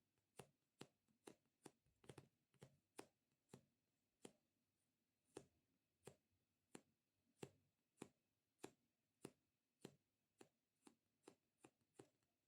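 Fingertips tapping on a sticky squishy stress toy: a string of faint, sharp, tacky clicks, about two a second, coming in quicker clusters near the end.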